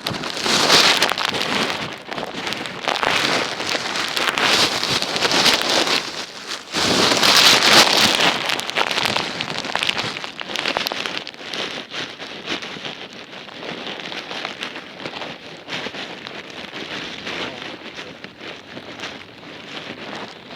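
Rain falling, a dense hiss of drops. It comes in loud surges over the first half and eases to a softer, steady patter after about ten seconds.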